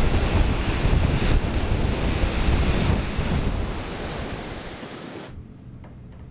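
Loud rushing of wind and sea waves at sea, a steady roar with a heavy low rumble that slowly fades, then cuts off abruptly about five seconds in.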